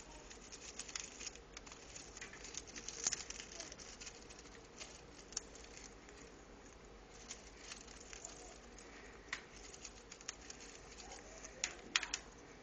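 African grey parrot chewing and picking at a chew toy to get at a peanut stuffed inside: irregular crunching clicks and crackles of its beak, with a few sharper cracks about three seconds in and near the end.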